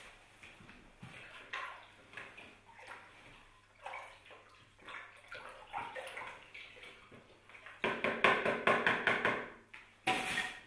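Water splashing and trickling in uneven gushes from a small model waterfall, louder for a couple of seconds near the end.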